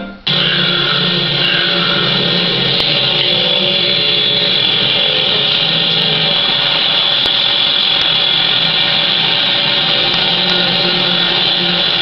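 A loud, steady grinding drone with a constant high whine over a low hum, starting abruptly as music cuts off.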